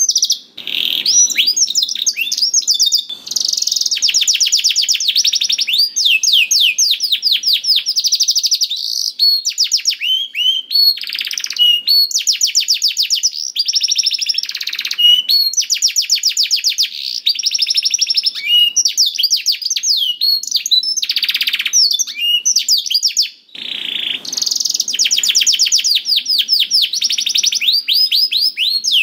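Domestic canary singing a long, fast song of rolling trills and quick repeated notes with hardly a pause.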